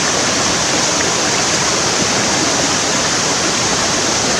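Mountain stream water rushing steadily over rocks and small cascades, loud and unbroken.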